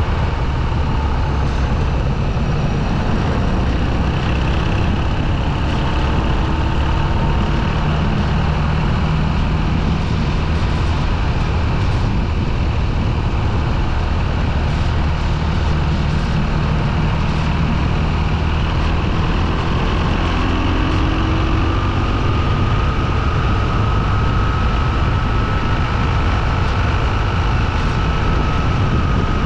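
Motorcycle riding along, its engine running steadily under wind and road noise. The engine note rises a little about two-thirds of the way through.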